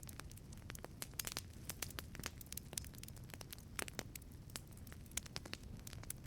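Wood fire burning in a wood-fired pizza oven: irregular sharp crackles and pops over a low steady rumble of the flames.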